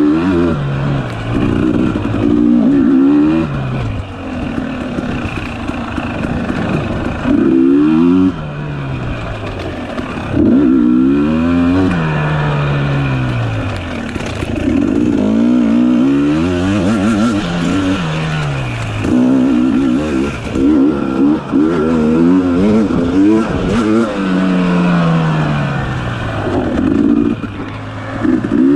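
Dirt bike engine revving hard and easing off again and again, its pitch climbing on each burst of throttle and dropping back between them.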